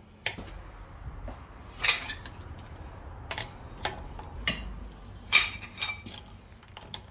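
Metal tools clinking and clanking as they are handled: about seven separate sharp metallic knocks, spread unevenly over several seconds, over a low steady background hum.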